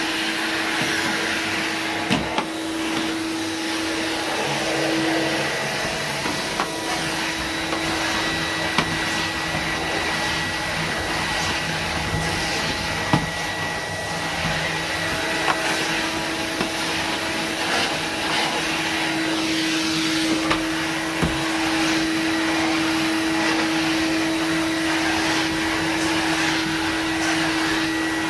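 Numatic NV250 canister vacuum cleaner running steadily while vacuuming: a constant motor hum over the rush of suction air, with a few sharp clicks.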